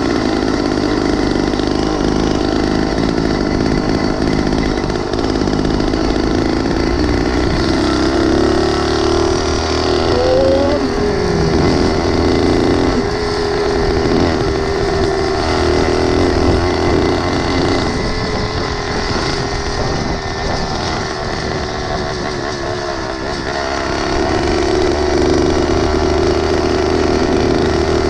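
Small engine of a motorized mini bicycle running under way, its pitch falling and rising with the throttle. It eases off for a few seconds about two-thirds of the way in, then picks up again.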